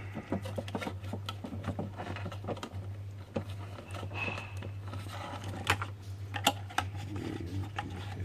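Irregular small clicks and knocks of parts and tools being handled on the workbench, over a steady low hum, with a brief high tone about four seconds in.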